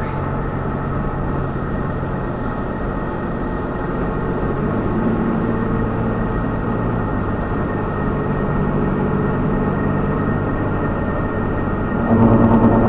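Diesel Dodge Ram 3500 dually cruising at highway speed, heard from inside the cab: a steady engine and road drone. Near the end a louder pitched sound cuts in over it for about a second.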